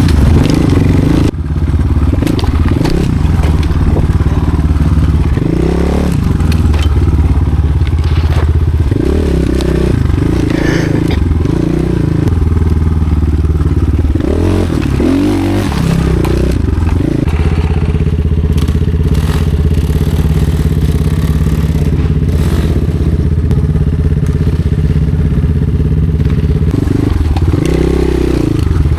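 Off-road motorcycle engine running loud and close, revved up and down again and again with rising and falling pitch.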